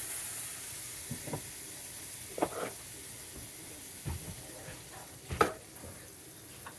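Pancake batter frying in a hot pan, a steady sizzle, with several sharp knocks of a utensil against the pan, the loudest about five and a half seconds in.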